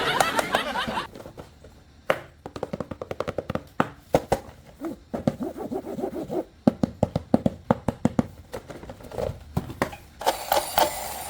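A run of small clicks and taps coming in quick bursts, with a brief pitched sound about five seconds in.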